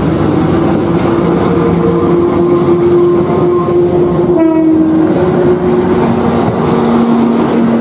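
Passenger train led by a CC 201 diesel-electric locomotive passing close by: loud engine and wheel noise, then coaches rolling past with a clickety-clack. A few steady tones in the noise step down in pitch about halfway through as the train goes by.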